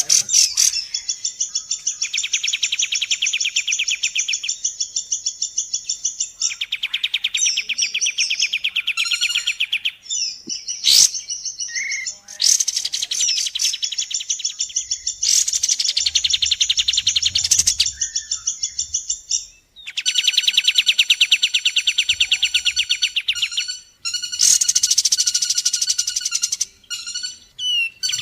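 Recorded wild songbird song played as a training track: long, very rapid trills of high chirps in phrases of several seconds, with short breaks between them and one sharp click about 11 seconds in.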